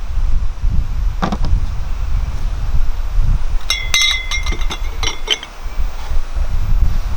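A quick run of ringing clinks from cooking utensils being handled, starting a little past halfway and lasting under two seconds. A steady low wind rumble on the microphone runs underneath.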